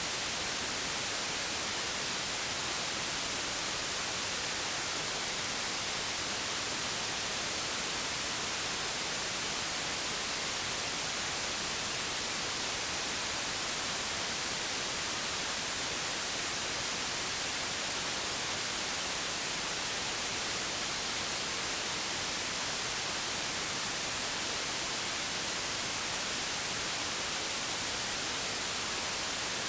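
Steady hiss of static, even and unchanging, heaviest in the treble.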